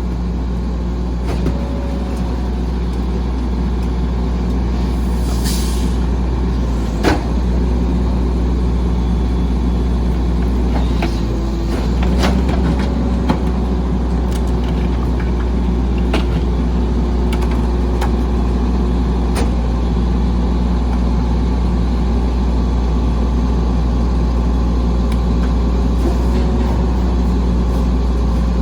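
Volvo Xpeditor rear-loader garbage truck's diesel engine running steadily with a low drone, a short air hiss about five seconds in and scattered sharp knocks and clanks, the loudest about seven seconds in.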